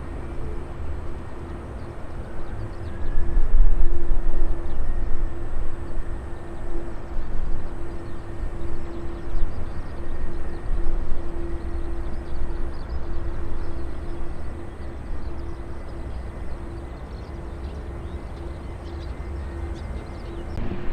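Jet aircraft engine noise at an airport, a steady rumble with a constant tone that grows loud about three seconds in and then slowly fades.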